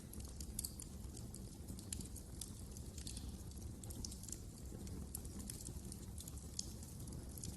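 Wood fire crackling in a fireplace: frequent, irregular sharp pops and ticks over a low, steady rush of the burning flames.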